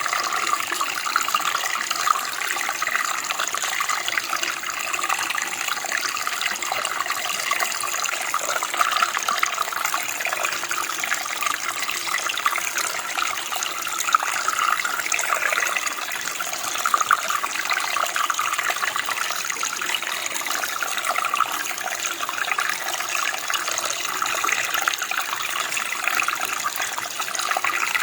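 Steady running water of a small stream or creek, an even rushing and babbling flow.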